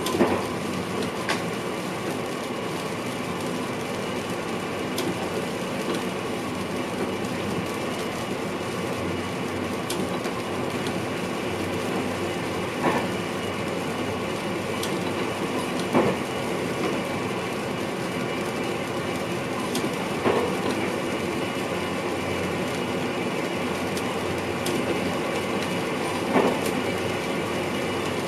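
VIRM double-deck electric train running along the track, heard from inside the driver's cab: a steady rumble with a hum of several even tones. A few sharp knocks from the wheels come through, near the start and then every few seconds in the second half.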